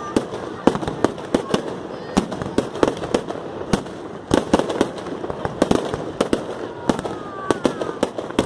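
Fireworks display going off: a dense, irregular string of sharp bangs and pops, several a second, with a short falling whistle near the end.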